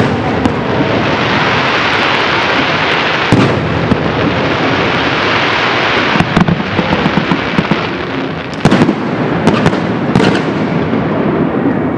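Fireworks display: a dense, continuous crackling of bursting shells, with sharp bangs standing out about five times through the stretch.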